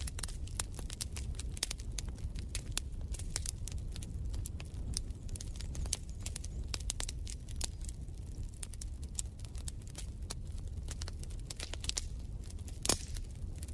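Wood fire crackling in a fireplace: irregular sharp snaps and pops over a low steady rumble of the flames, with one louder pop near the end.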